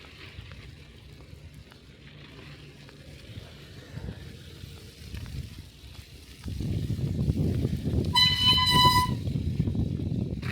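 A single high, steady horn toot about a second long sounds near the end, over a low rumble that grows much louder about two-thirds of the way in.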